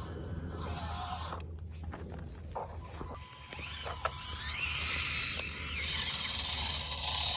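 Small electric motors of 1/24-scale RC rock crawlers whirring, the pitch rising and falling as they throttle over rocks, with a couple of sharp clicks.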